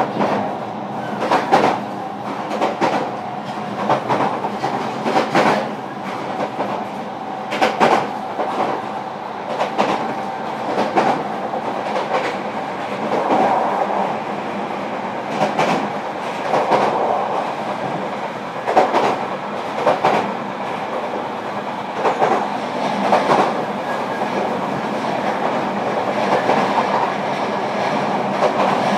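Running sound inside a JR Kyushu 305 series electric train's motor car at speed: the wheels clack over rail joints every second or two over a steady rolling rumble.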